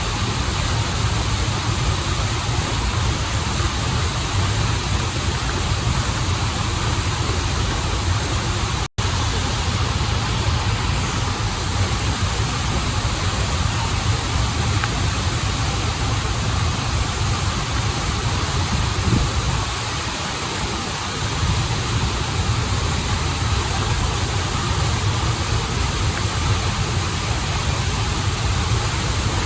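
Steady rush of a waterfall and flowing stream, with a split-second dropout about nine seconds in.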